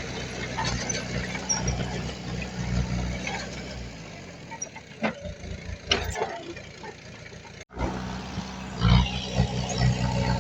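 Diesel engine of heavy earthmoving machinery running with a steady low hum. It fades about four seconds in while a few sharp metallic knocks sound, then comes back loud after a brief cut near the end.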